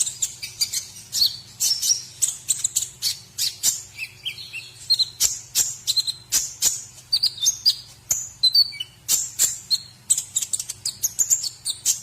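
White-rumped shama (murai batu) singing a fast, varied song of sharp chirps, clicks and short whistled slides, note after note with barely a pause, over a faint steady low hum.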